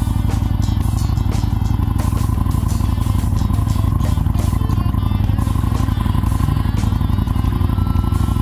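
Aprilia Tuono motorcycle engine running at a steady speed, mixed with background music.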